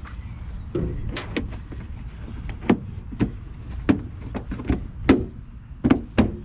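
A dozen or so irregular sharp knocks and clicks as a 2008 Honda Civic's bumper is pushed and snapped back into place by hand, over a steady low rumble.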